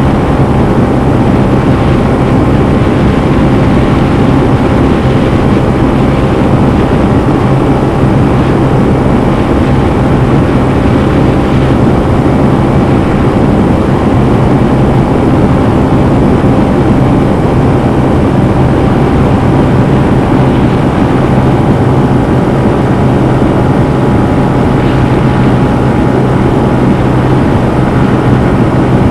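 Honda CB125F's air-cooled 125cc single-cylinder engine running steadily under way, heard onboard, with its pitch holding level and a constant rush of wind and road noise underneath.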